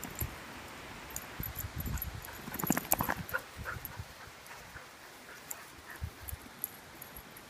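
Australian Labradoodle puppies giving short whimpers and squeaks, mostly around the middle, with light scuffling and clicks.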